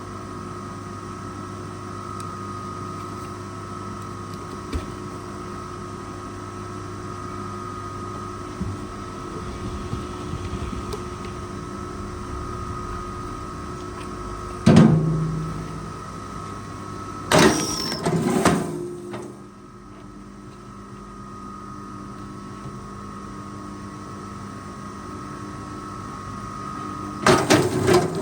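Machine engine running steadily, with a loud knock about halfway, a short burst of clattering soon after, and several sharp knocks near the end.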